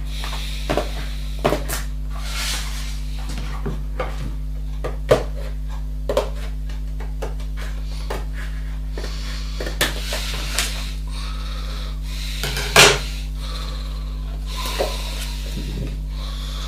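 Scattered short clicks, taps and light knocks of objects being handled, the loudest about three-quarters of the way through, over a steady low hum.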